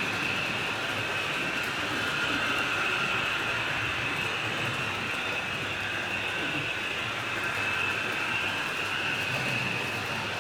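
HO scale model train running along the layout's track, a steady whir with a high whine that wavers slightly in pitch.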